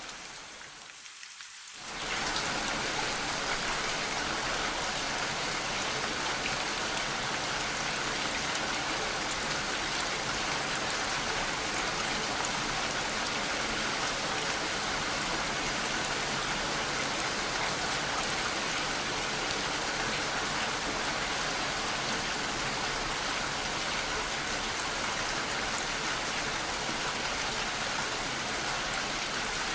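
Steady rain falling, an even hiss with scattered drop ticks. It is thinner and quieter for the first two seconds, then swells to a full, level downpour.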